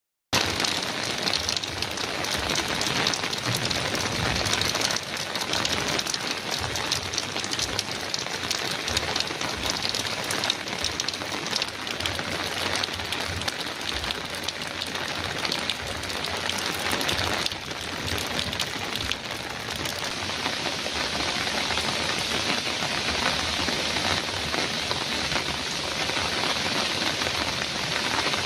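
Heavy rain falling steadily on a metal roof: a dense, even patter of drops.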